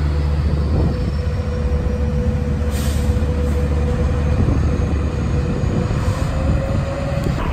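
Train running past: a heavy steady rumble with a thin whine held throughout that rises slightly near the end.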